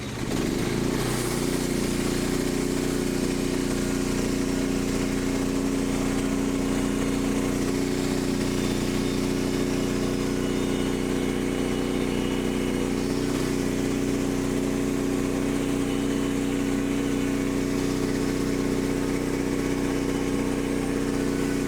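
Portable bandsaw mill's gas engine throttling up about half a second in, its pitch rising briefly, then running steadily at high speed to drive the band blade.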